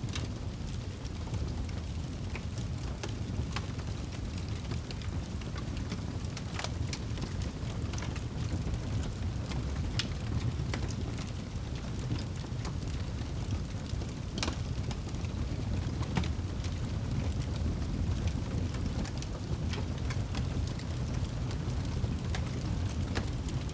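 Wood fire burning in a fireplace: a steady low rumble with scattered sharp crackles and pops, a few of them louder.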